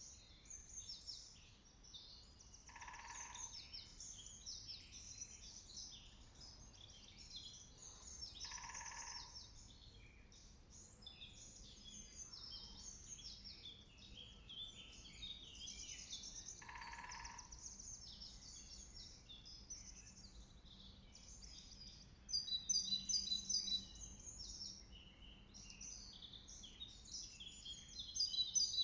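Woodland birdsong chorus, many small birds singing high notes, with a woodpecker drumming three times, short bursts spaced several seconds apart. A nearby songbird sings a loud rapid trill about two-thirds of the way through and again near the end.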